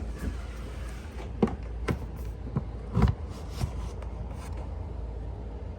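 A handful of short knocks and light scrapes, about five in a couple of seconds with the loudest near the middle, over a steady low hum.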